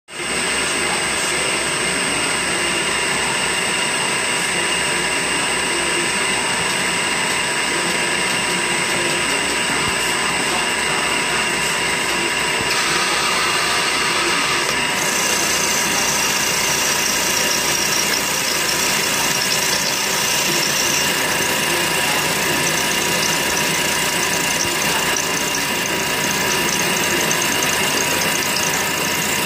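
CNC milling machine running a cut in metal: a steady machine noise with a constant whine from the spindle and cutter. The sound of the cut changes about halfway through.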